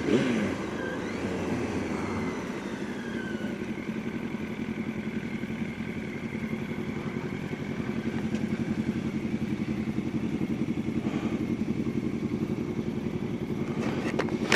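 Motorcycle engine running steadily on the road. Its pitch falls gently over the first few seconds, then holds, with a few short clicks near the end.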